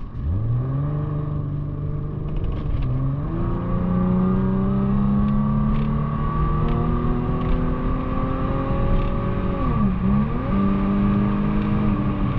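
Infiniti G37's 3.7-litre VQ37VHR V6, muffler and resonator deleted, accelerating hard up through the gears. The engine note climbs steadily, dips at an upshift about three seconds in and again near ten seconds, then climbs again.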